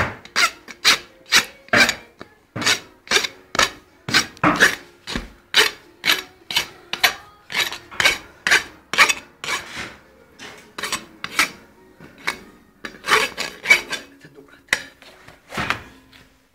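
Farrier's rasp filing a horse's hoof in regular strokes, about two a second, lighter for a moment midway and then strong again.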